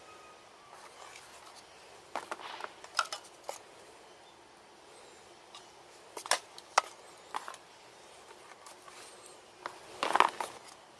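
Scattered sharp clicks and knocks of objects being handled, a few single ones in the middle and a louder cluster near the end, over a faint steady hiss.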